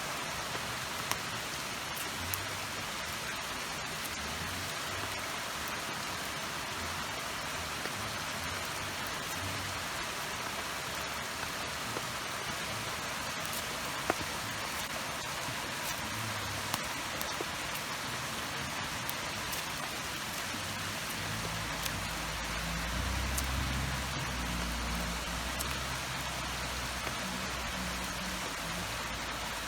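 Steady rain falling, an even hiss with a few sharp ticks scattered through it. About two-thirds of the way in a low rumble swells up for several seconds and then eases.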